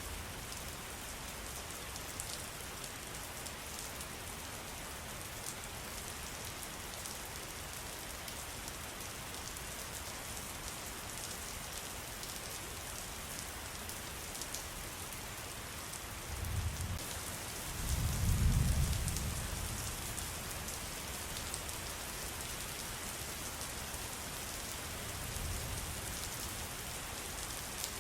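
Steady rain falling, with a dense patter of drops. A low rumble rises and fades about two-thirds of the way through, with a fainter one near the end.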